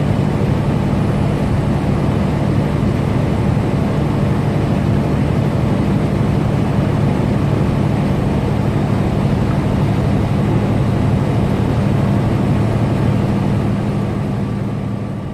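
Semi-truck running at highway speed, heard from inside the cab: a steady low engine drone with road noise, fading out near the end.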